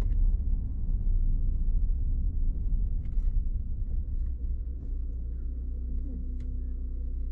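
Car driving along the road: a steady low rumble of engine and road noise, easing slightly about five seconds in.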